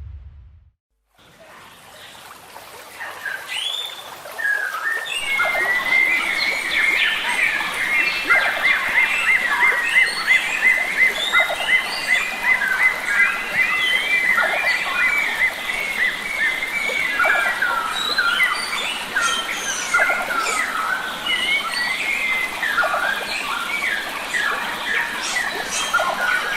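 Chorus of wild forest birds, many short whistled calls and a long rapid trill overlapping, over the steady rush of a stream. It fades in after a brief silence about a second in.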